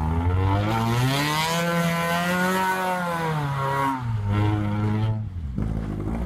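Opel Vectra A's engine revving as the car spins donuts on snow. The pitch climbs over the first couple of seconds, drops back about four seconds in, and climbs again near the end.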